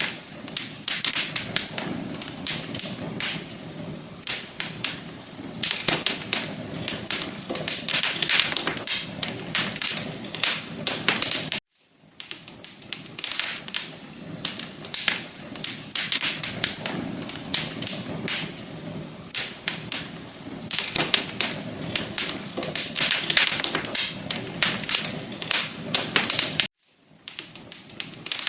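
Fireplace fire crackling, a dense run of irregular sharp pops and snaps over a soft hiss. It cuts out briefly twice, about 12 seconds in and near the end, where the recording loops.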